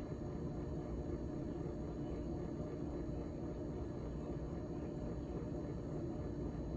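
Freezer fan of a GE GTH18XCTZRBB refrigerator running steadily, a constant hum.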